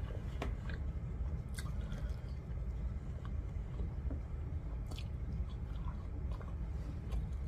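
Close-miked chewing of cheesy baked pasta scooped up with flatbread: wet mouth sounds with a few short, sharp smacks, over a low steady hum.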